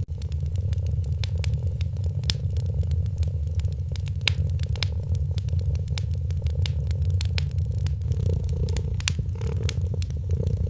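Wood fire crackling with scattered sharp pops, over a cat's steady low purring.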